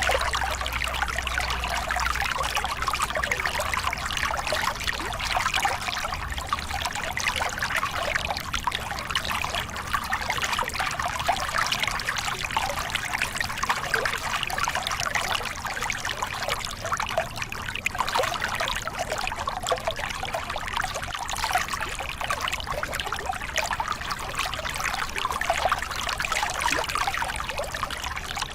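Small river cascade: water pouring and splashing over rocks in a steady, even rush.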